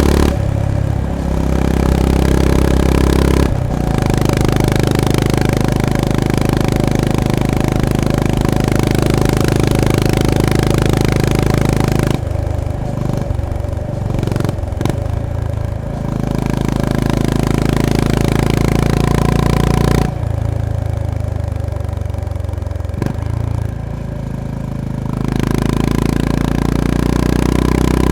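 Honda GB350S / CB350RS single-cylinder engine and exhaust under way, heard close on the bike: pulling steadily, with a brief break about three and a half seconds in like a gear change. Around the middle and again later the throttle is closed and the engine drops to a thinner, lower note, with a few short gaps in the first of these, before it pulls hard again near the end.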